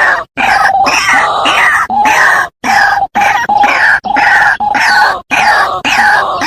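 White-breasted waterhen calling: a loud, rapid run of repeated harsh croaking notes, broken by several brief dead-silent gaps where the recording is cut.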